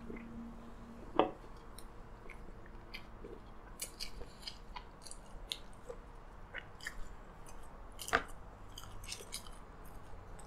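Close-miked eating sounds: chewing with many small wet mouth clicks. Two sharp knocks stand out, the loudest about a second in and another near eight seconds.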